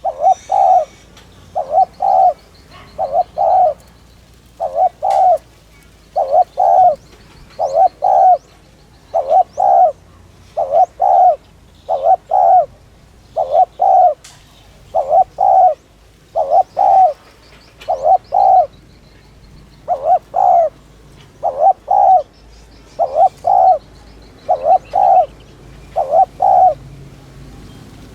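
Spotted dove cooing in quick succession, short clusters of two or three coo notes repeated a little under once a second without a break: the rapid 'thúc' cooing that keepers play to rouse and lure other doves.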